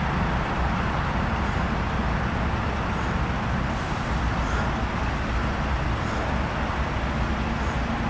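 Steady low engine rumble with a broad hiss and no distinct events, with a faint steady hum entering in the second half.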